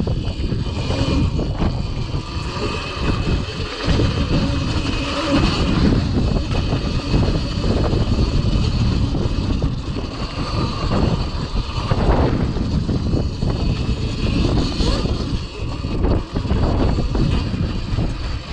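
Cake Kalk OR electric dirt bike being ridden, its motor giving a steady high whine under heavy wind buffeting on the microphone.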